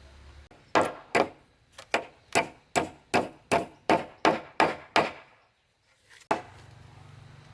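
A tool striking wood in a quick, even series of about eleven blows, roughly two and a half a second, each ringing briefly. The blows stop about five seconds in, and a single click follows a little after six seconds.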